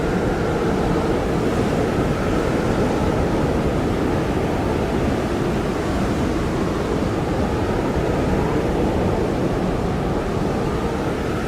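Blizzard wind blowing hard and steadily: a dense, low rush with a faint whistle wavering up and down in pitch.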